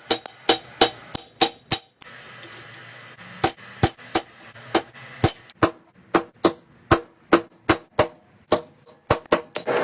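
Blacksmith's hammer striking hot steel on an anvil, about three ringing blows a second, with a break of about a second and a half about two seconds in before the hammering resumes.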